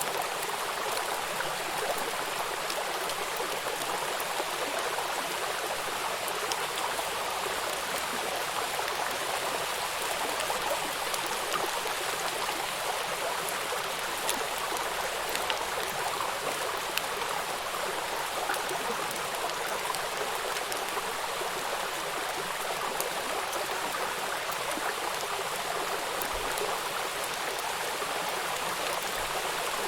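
Small waterfall and river water rushing and splashing over rocks: a steady, unbroken rush with fine splashing detail.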